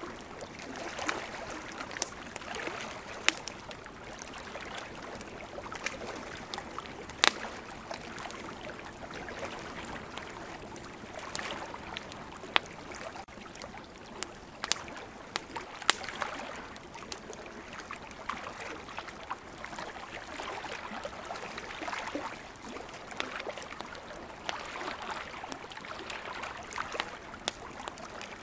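Campfire wood crackling, with a dozen or so sharp pops scattered through it, over the wash of ocean waves that swells and fades every few seconds.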